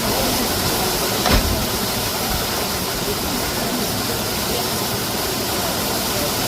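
Waterfall: a steady rush of falling water, with a single thump about a second in.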